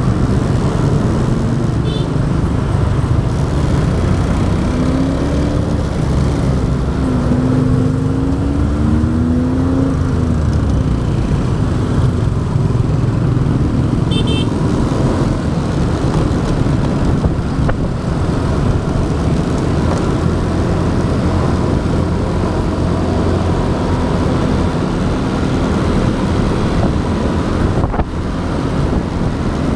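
Motorbike riding along a city road, with steady engine and road noise and traffic around it. In the first third an engine note rises and falls a few times.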